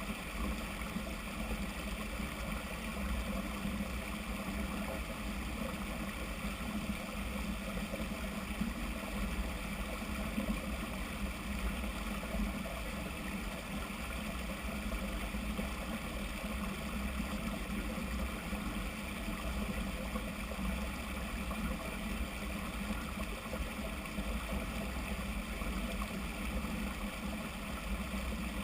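Steady rushing noise with a constant low rumble, unbroken throughout.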